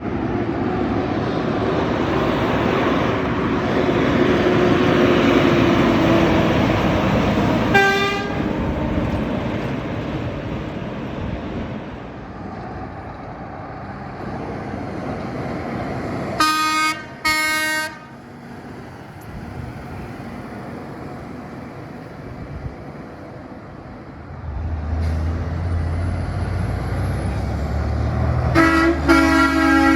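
Heavy road traffic with trucks passing and horns honking: a short toot about eight seconds in, two quick blasts a second apart midway, and a longer two-note blast near the end over a low engine rumble.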